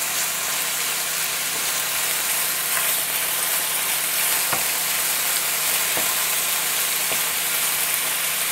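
Chicken pieces and shrimp frying in hot oil in a wok, a steady sizzle, while a wooden spatula stirs them, with a few light spatula taps against the pan about halfway through.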